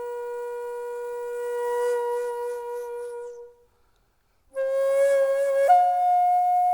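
Daegeum, the Korean large transverse bamboo flute, holding one long note that swells and then fades out about three and a half seconds in. After a short silence it comes back on a new note and steps up to a higher held note, played with a slight waver.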